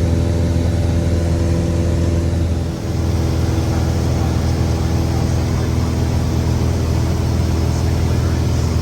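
A Cessna 172's four-cylinder piston engine and propeller droning steadily in flight. About three seconds in there is a brief dip, and the drone settles on a slightly different pitch.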